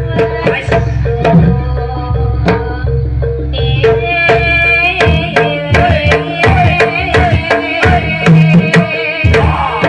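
Jaranan gamelan music: hand-struck kendang drums drive a busy rhythm under ringing metallophones and a wavering sustained melody line.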